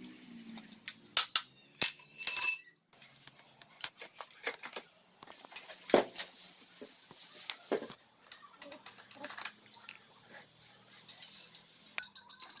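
Metal tools and engine parts clinking and knocking on a workbench: an irregular run of sharp taps and clicks, with one loud ringing metallic clink about two seconds in.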